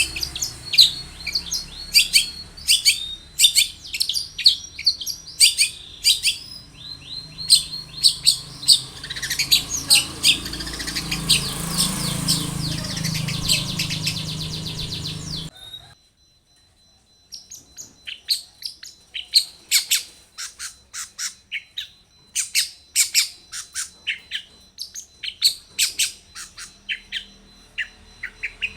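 Long-tailed shrike singing a fast run of sharp high chirps and short trills. About halfway through, the recording cuts off abruptly into a second or so of silence, and a second recording of rapid chirping picks up.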